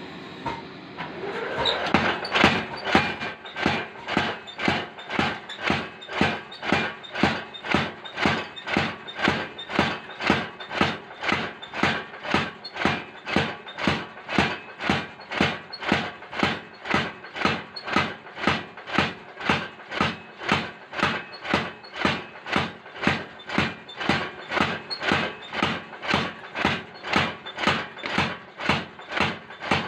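Blacksmith's mechanical power hammer striking metal in an even rhythm of about two blows a second, building up to speed over the first couple of seconds.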